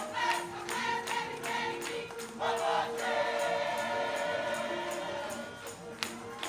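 Gospel choir singing over a steady percussive beat, the voices rising about two and a half seconds in to a long held chord.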